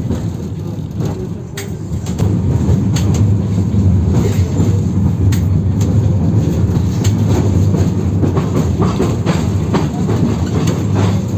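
A 71-608KM tram heard from inside while it runs along the track: a heavy low rumble of wheels and running gear, with sharp knocks and rattles from rail joints. It gets louder about two seconds in, over rails the uploader calls badly worn on this route.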